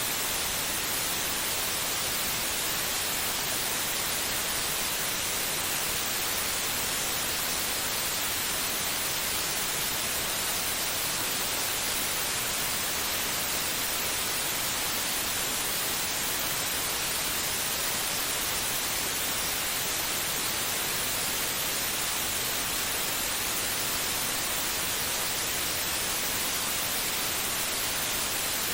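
Steady white noise: an even, unchanging hiss, strongest in the high frequencies, played as a soothing sleep sound for a baby.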